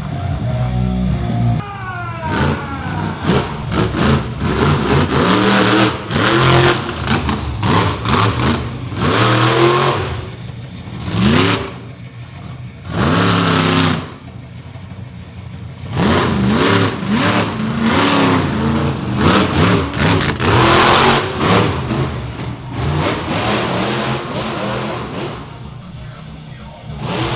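Monster truck engine revving hard again and again, its pitch climbing and dropping in bursts of a few seconds, with music playing underneath.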